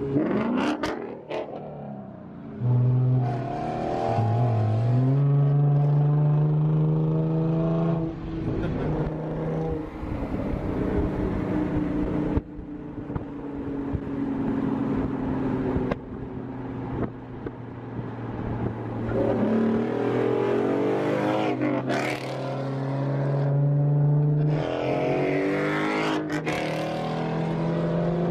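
A car engine pulling through its gears, its pitch climbing and stepping several times as it speeds up and shifts, with a few short crackles in between.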